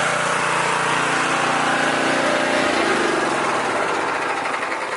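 Pressure washer running and spraying: a steady motor hum under the hiss of the water jet. About three seconds in the low hum thins out and the spray hiss carries on.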